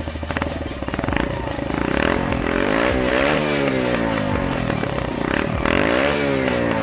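Kreidler motorcycle fitted with a homemade exhaust add-on, its engine revved twice: the pitch rises and falls, then climbs and drops again.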